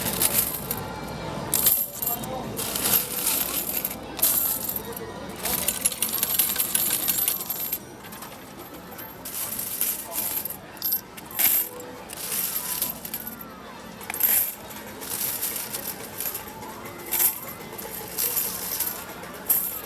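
Metal arcade token medals clattering as they are rapid-fired into a medal pusher machine, coming in repeated irregular bursts of jingling.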